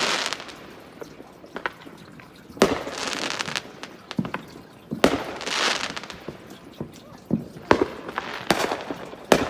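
Fireworks going off: a sharp bang every two to three seconds, each followed by a crackling hiss.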